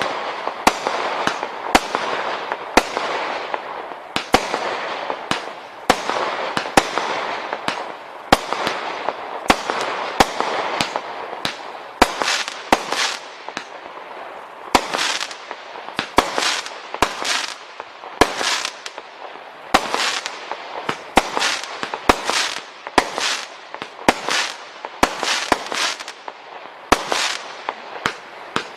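Display firework cakes firing in rapid succession: a steady run of bangs, one or two a second, over a dense crackle. About halfway through the bangs stand out as louder separate bursts, each trailing off in a short crackle.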